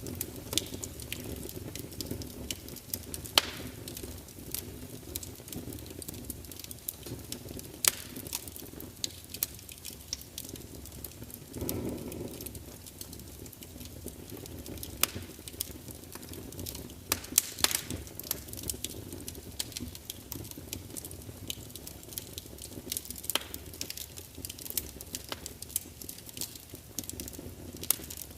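Wood fire burning in a large fireplace: a steady low rumble of flames with irregular sharp crackles and pops as the logs spit, and a brief swell of flame noise about twelve seconds in.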